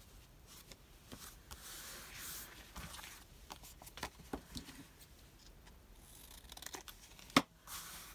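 Paper and sticker paper being handled at a craft desk: soft rustling and peeling with scattered small taps and clicks, and one sharper tap about seven seconds in.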